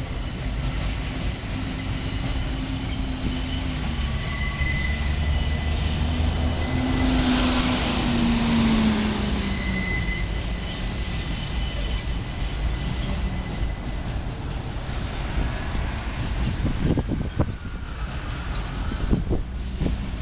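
R68-type New York City subway train rolling through a yard, its wheels squealing in steady high tones over a low rumble. A hum falls in pitch about eight seconds in, and sharp knocks come near the end as the wheels pass over track joints.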